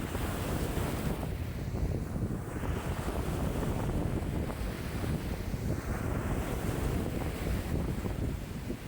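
Lake waves breaking and washing against the shore in a strong wind, with wind rumbling on the microphone. Surges of wave wash come every couple of seconds over a constant low wind rumble.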